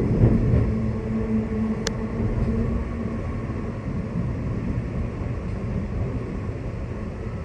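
Steady rumble of a Queensland Rail electric passenger train running along the track, heard from inside the carriage. A steady low tone sounds over the first three seconds, and a single sharp click comes about two seconds in.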